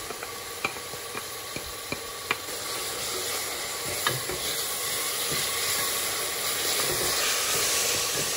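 Chopped onions frying in oil and ghee in a pressure cooker, with a wooden spoon scraping and tapping as ginger-garlic paste is pushed in and stirred. The sharp taps come in the first couple of seconds; then the sizzling grows louder and holds as the paste is worked into the hot oil.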